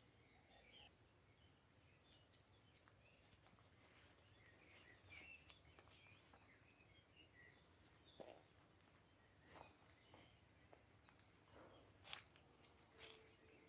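Faint birdsong: scattered short chirps and calls over a quiet outdoor background, with a few sharp clicks, the loudest about twelve seconds in.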